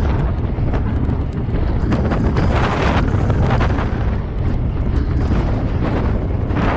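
Strong wind buffeting an action camera's microphone while cycling: a loud, low rumble with irregular gusty surges.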